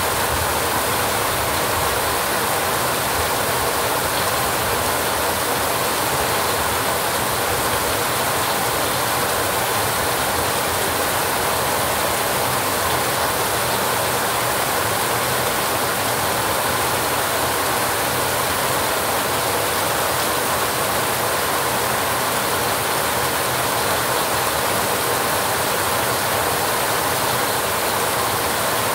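Heavy rain falling steadily on a rusty metal roof, a dense, even hiss with no breaks.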